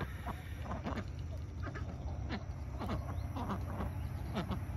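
Several domestic ducks quacking on and off, in short falling calls, over a low steady rumble.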